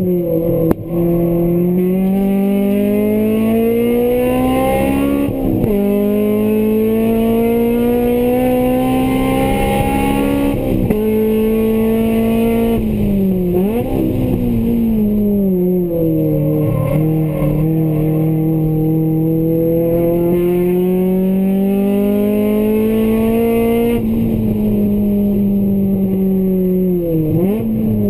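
Honda Integra's four-cylinder engine heard from inside the cabin, pulling hard around a track, its pitch climbing in long slow rises and dropping sharply several times at gear changes and lifts.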